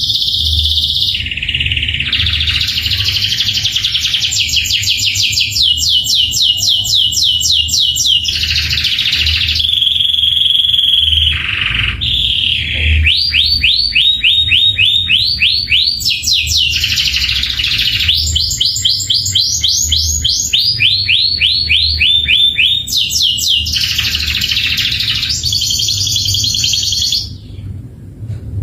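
Domestic canary singing a long, loud song of rolling trills and runs of rapid repeated sweeping notes, several a second, with a held whistle about ten seconds in. The song breaks off just before the end.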